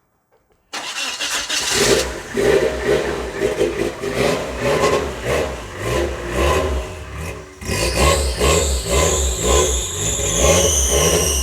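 Turbocharged G16B four-cylinder engine in a lifted Suzuki Sierra SJ70 running and being revved, coming in suddenly about a second in, with a brief drop just before eight seconds.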